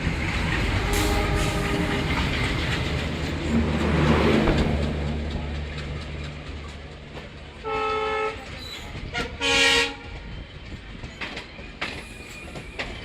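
Train running with a steady rumble and wheel clatter. Then the horn sounds three blasts: one about eight seconds in, followed by a short and a longer blast just after nine seconds.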